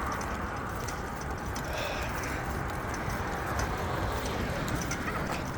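Wind buffeting the microphone and road noise from a bicycle being ridden, a steady low rumble with faint scattered ticks.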